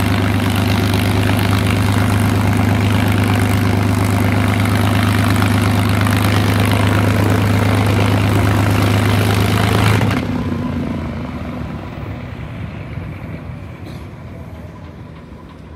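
P-51D Mustang's Packard Merlin V-12 engine running at a steady pitch. It cuts out abruptly about ten seconds in, and the remaining rumble fades away.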